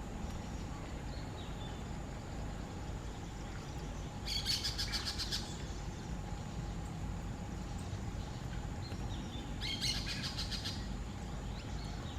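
Brown-throated parakeet calling in two bursts of rapid, harsh repeated notes, each about a second long and about five seconds apart, over a steady low background rumble.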